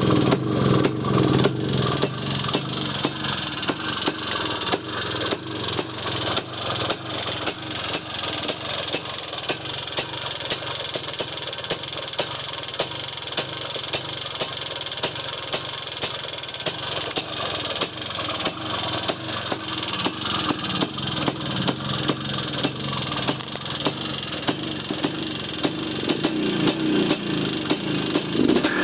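Izh Planeta 5 single-cylinder two-stroke motorcycle engine running, a rapid train of firing pulses, a little stronger about the start and again near the end.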